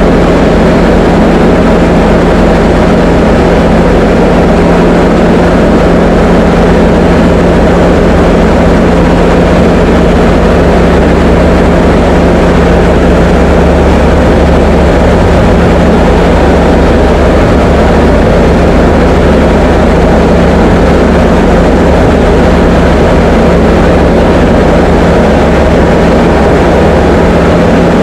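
Diamond DA20 light aircraft's piston engine and propeller running at a steady drone, heard from inside the cockpit, with a strong low hum that does not change.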